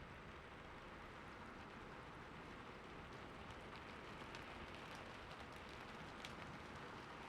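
Steady rain falling on a roof, a soft even hiss with scattered sharper drip ticks, more of them in the second half.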